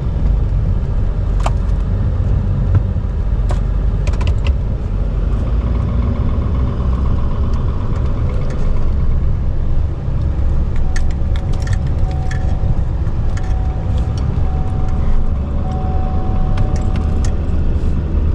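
Chevy Duramax V8 turbodiesel pickup running steadily with a deep rumble, with scattered sharp clicks and knocks over it.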